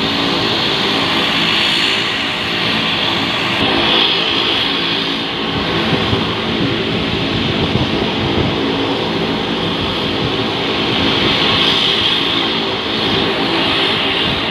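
Aircraft engines running loudly and steadily, a constant whine over a dense hum, without a clear rise or fall in pitch.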